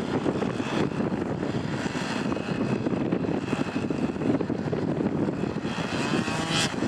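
Jet airliner engines running, a steady rumble with a faint high whine, shifting slightly near the end as the aircraft moves.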